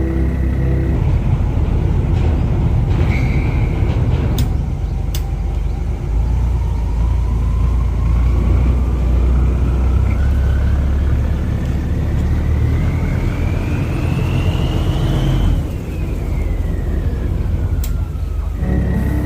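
Boat engine running with a heavy low rumble; a whine climbs steadily for about ten seconds, then drops away, with a few sharp clicks.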